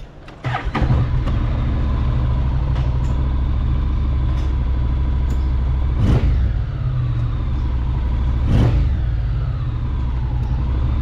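Honda X-ADV 750's parallel-twin engine starting about half a second in and then idling steadily, with two brief louder blips partway through.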